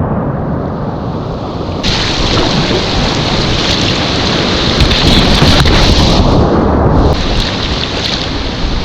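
Whitewater of a river rapid, rushing loudly and steadily, with the water noise going dull twice: near the start and again about six seconds in.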